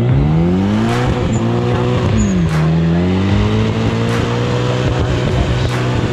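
Mitsubishi Lancer 2.0 turbo engine revving hard in a burnout, with the rear tyre spinning and smoking against the trailer deck. The revs climb steeply at first, dip about two and a half seconds in, climb again and hold high, then drop near the end.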